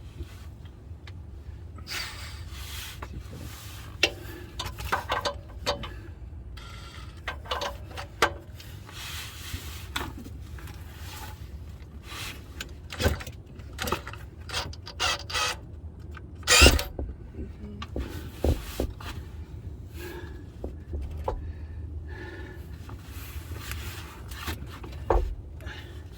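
Irregular metallic clinks, knocks and rubbing from tools and parts being handled under a car during a transmission install, with one loud knock about two thirds of the way through, over a steady low hum.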